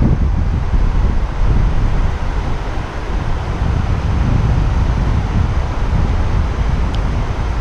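Wind buffeting the microphone: a loud, gusty low rumble that rises and falls.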